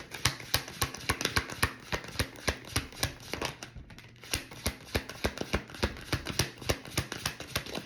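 A deck of tarot cards being shuffled by hand: quick, irregular crisp card clicks and slaps, several a second, with a brief lull about four seconds in.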